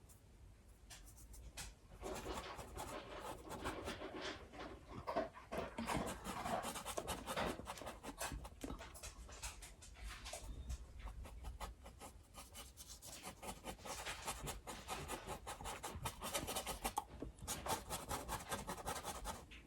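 Paintbrush scrubbing acrylic paint onto a canvas in quick back-and-forth strokes, a dry scratchy rubbing, louder from about two seconds in.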